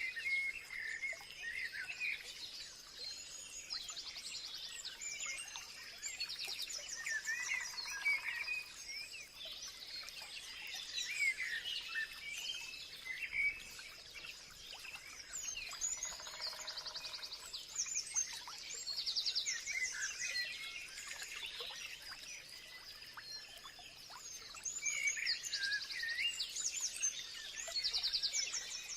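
Several wild birds singing and calling together: short chirps and gliding whistles mixed with repeated rapid trills, over a steady high-pitched tone.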